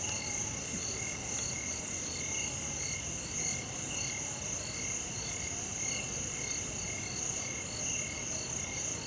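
Night chorus of insects and frogs: a steady high shrill drone with rows of short repeated chirps at several pitches, a couple each second, going on evenly.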